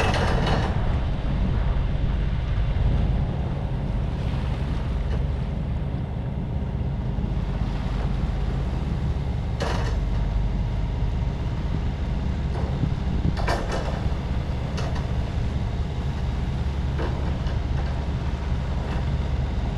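Yanmar 75 hp marine diesel engine of a sailing yacht running steadily under way, a deep, even hum. A few brief, sharper noises sound around the middle and later on.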